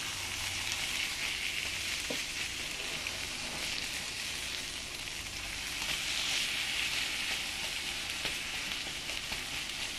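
Salmon and egg omelette sizzling in a nonstick frying pan as its quarters are turned over with a plastic spatula: a steady frying hiss that swells a little about six seconds in.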